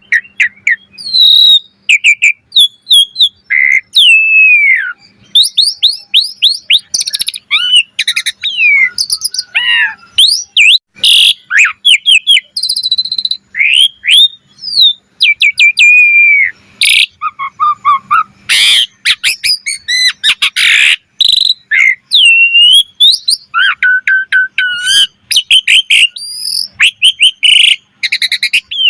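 Asian pied starling (jalak suren) singing a long, varied song, hardly pausing. It mixes clear whistles, rising and falling glides, rapid chattering note trains and harsh rasping notes.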